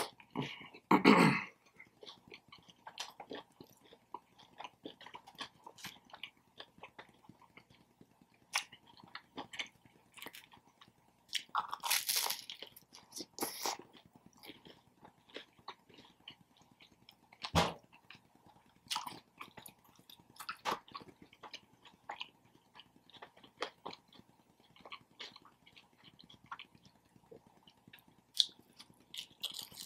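Close-up mouth sounds of a person chewing and biting into a footlong sub sandwich: irregular wet clicks of chewing, with a few louder bites.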